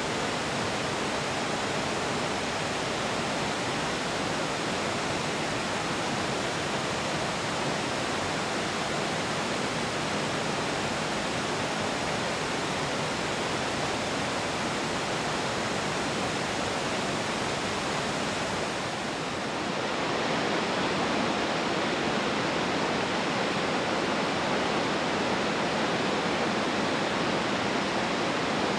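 Waterfall pouring steadily, a dense even rush of falling water. About 19 seconds in it dips briefly, then comes back a little louder and less hissy.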